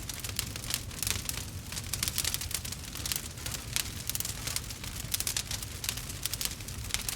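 Burning wood crackling and popping in a fire: dense, irregular quick snaps over a steady low rumble.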